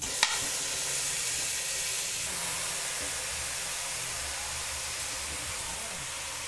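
Raw chicken pieces going into hot oil and ghee with fried onions in a pressure cooker. A sudden, steady sizzle sets in and slowly eases off.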